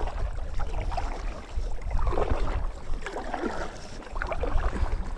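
Water splashing and lapping around a kayak, in irregular patches, over a steady low rumble of wind on the microphone.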